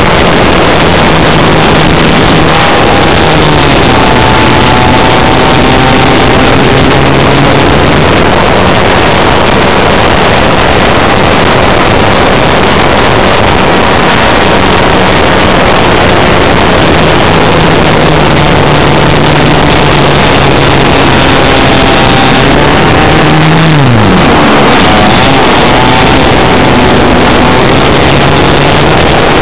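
Engine of a radio-controlled Extra 300S model aeroplane (JBA75 engine) running at speed, buried in loud, heavy wind rush. Its pitch shifts a few times and drops sharply, then picks up again, about four-fifths of the way through.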